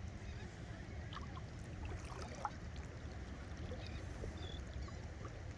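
Legs wading through shallow sea water, with light scattered splashes over a steady low rumble.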